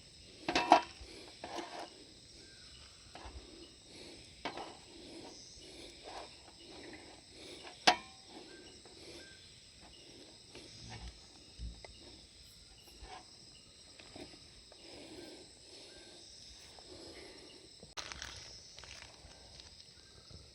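Insects chirring steadily in the background, with scattered sharp clicks and soft knocks from handling gear; the sharpest clicks come about a second in and again about eight seconds in.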